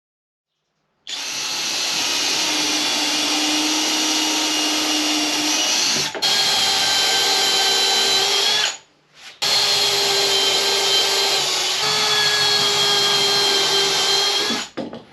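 Electric power tool motor running at steady speed with a high whine, in two long runs with a short stop about eight and a half seconds in.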